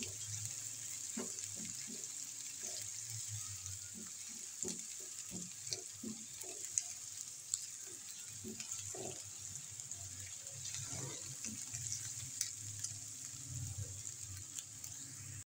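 Chopped onion with crushed ginger and garlic sizzling steadily in ghee in a frying pan, with a spatula scraping and tapping the pan in short light clicks as it is stirred.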